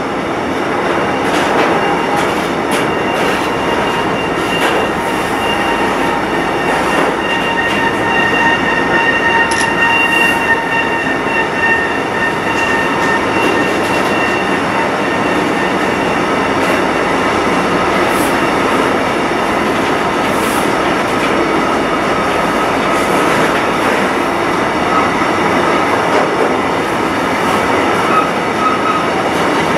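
A container freight train's brand-new EKK Wagon flat wagons rolling past with a steady rumble and a high, ringing squeal in several tones. The squeal fades about halfway through, and a single squeal tone returns for the last several seconds.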